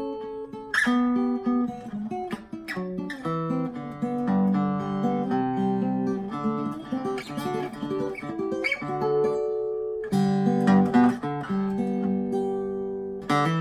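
A 1952 Gibson L-48 archtop acoustic guitar, its loose braces and cracked neck block newly repaired, played in a run of changing chords and picked notes. It gets louder with a firm strum about ten seconds in.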